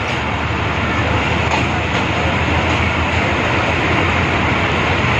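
A moving passenger train heard from inside the coach at an open window: a steady, loud rumble and rush of wheels running on the rails.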